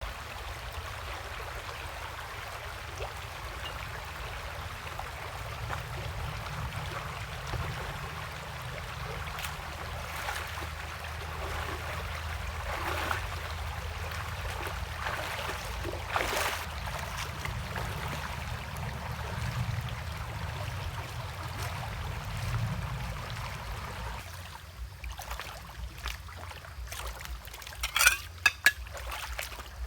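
Steady trickling water, with a series of sharp knocks in the last few seconds, the loudest near the end.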